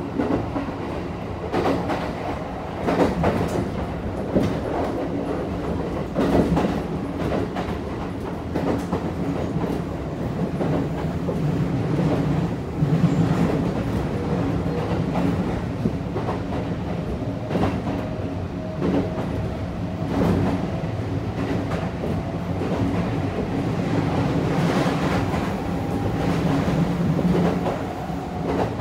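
Kintetsu 1233 series train car running at speed, heard from inside the car: a steady rumble with wheels clicking over rail joints every few seconds. A faint traction-motor whine rises slowly in pitch through the second half.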